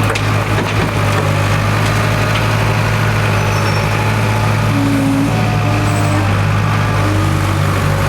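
International Harvester 270A backhoe's diesel engine running steadily.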